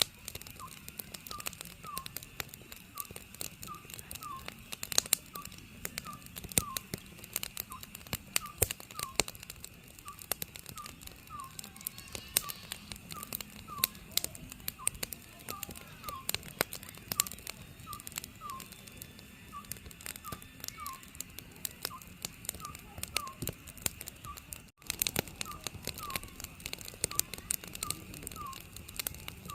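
Oriental scops owl giving its repeated short falling two-note call every second or two. Under it runs the steady crackle and sharp pops of a wood fire.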